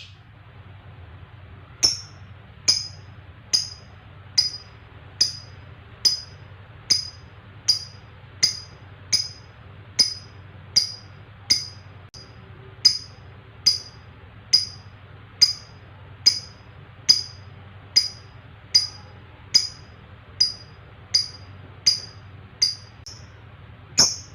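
Lovebird giving short, sharp, high chirps one after another at an even pace, a little more than one a second, starting about two seconds in.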